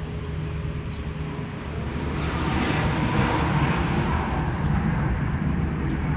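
Airliner engines running, a steady noise over a low hum that swells louder about two seconds in.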